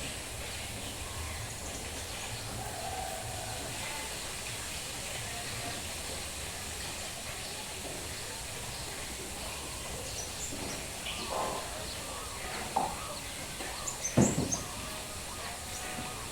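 Steady rain with birds chirping faintly. A few short knocks come near the end, the loudest about two seconds before it.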